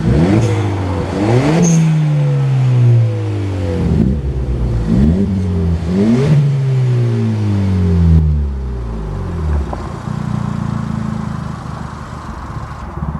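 Suzuki Swift Sport ZC33S's turbocharged 1.4-litre four-cylinder, heard through an aftermarket sports muffler, revved in repeated blips. Each blip is a quick rise in pitch followed by a slower fall, about five in a row, and the engine then settles to a steadier, lower note near the end.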